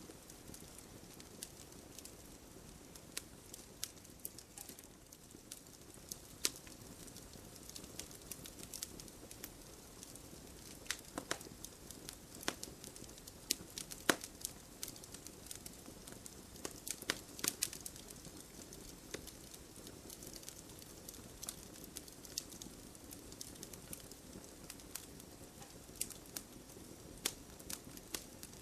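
Wood fire burning in a fireplace: a steady low rush of flames with irregular sharp crackles and pops, some louder snaps scattered throughout.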